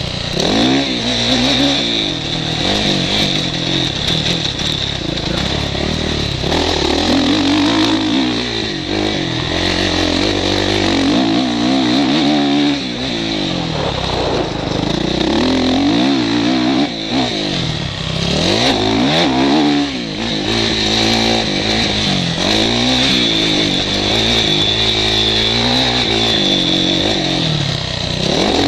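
Motocross bike engine heard from the rider's helmet, revving hard with its pitch rising and falling again and again as the throttle opens and closes and gears change.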